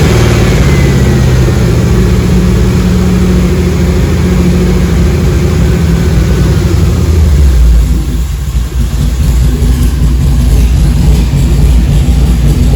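Flex-fuel 5.3-litre LS V8 engine from a 2003 Suburban running loudly on a test run, its engine speed rising and falling over the first several seconds, dipping briefly about eight seconds in, then running steadily.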